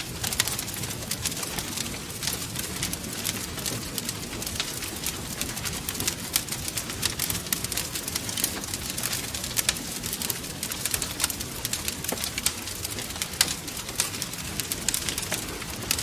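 Wood fire crackling: many sharp, irregular pops and snaps throughout, over a low, steady rumble of the burning fire.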